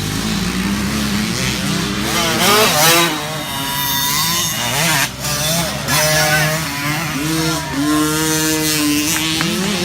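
Several small youth dirt bikes racing, their engines revving up and down so the pitch climbs and falls repeatedly, with more than one bike heard at once.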